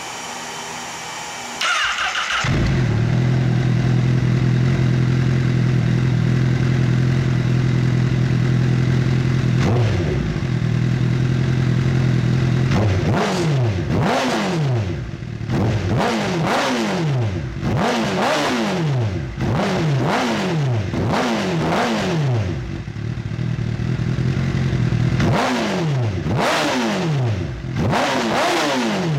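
Honda CBR1000RR inline-four engine breathing through a full Akrapovič exhaust system. It starts about two seconds in and settles into a steady idle. It is then blipped repeatedly, with about one quick rev a second, in two runs in the second half.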